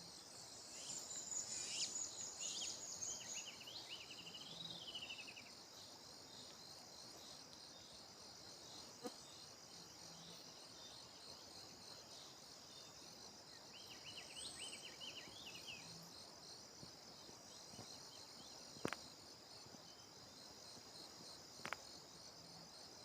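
Faint, steady high-pitched insect trilling throughout, with a bird singing quick runs of chirping notes twice: in the first few seconds and again about two-thirds of the way in. Two sharp clicks come near the end.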